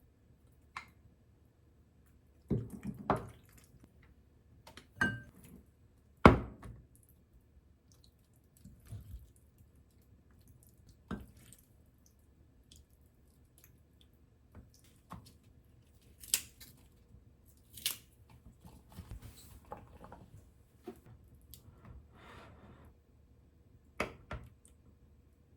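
Sparse handling sounds of kitchen items and utensils: scattered clicks and light knocks, the loudest about six seconds in.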